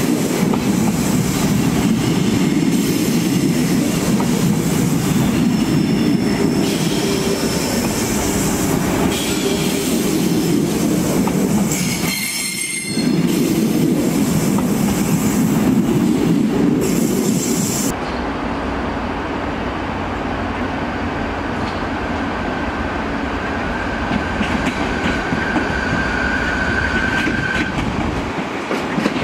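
A Renfe Rodalies double-deck commuter train departing slowly, its wheels rumbling and clacking on the rails with brief high wheel squeals. After a sudden change about 18 s in, a Renfe Media Distancia train pulls out with a lighter rumble and a steady wheel squeal for a few seconds near the end.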